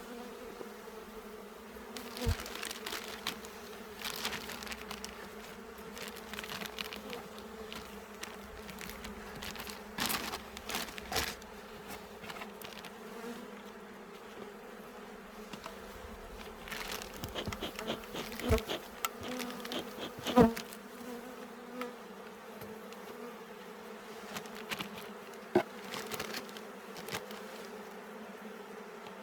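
Honeybees buzzing steadily around an opened hive, with scattered clicks and knocks from wooden frames and hive parts being handled; the sharpest knocks come about 18 and 20 seconds in, and another near 25 seconds.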